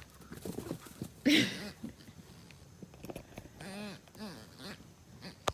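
A dog chewing and gnawing on a chew treat, with small irregular clicks, two short pitched vocal sounds about a second in and near four seconds, and a sharp click at the very end.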